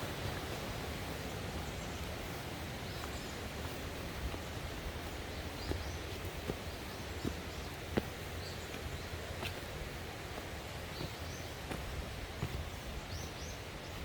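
Steady wind noise outdoors with short, high bird chirps every second or two and a few sharp clicks.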